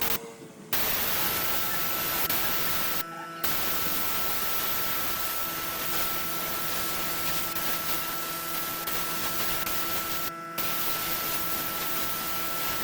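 Wood lathe running: a steady hiss with a constant high whine over it, cut off briefly three times.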